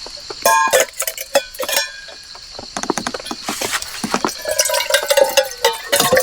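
Stainless camp cookware and utensils clinking and knocking as they are handled, with a few ringing metal clinks about half a second in. A steady high hiss lies under it, and a wavering tone runs through the second half.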